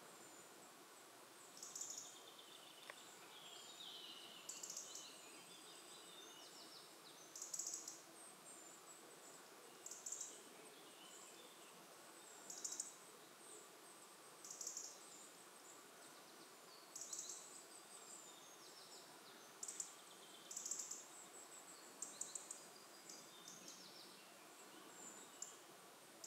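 Faint woodland birdsong: short, high-pitched song phrases repeating every two to three seconds over a quiet hiss of forest ambience, with a lower warbling phrase a few seconds in.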